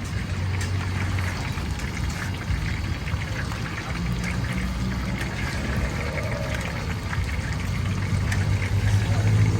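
Chicken deep-frying in hot oil: a steady sizzle with many small crackles, over a low steady hum.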